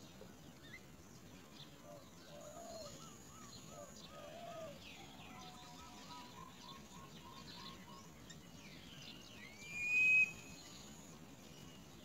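Birds calling: quick runs of short repeated notes and scattered chirps, then one loud rising whistle about ten seconds in.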